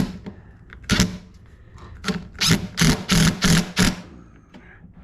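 A cordless drill-driver run in short trigger bursts, about seven of them, coming faster, roughly three a second, in the second half.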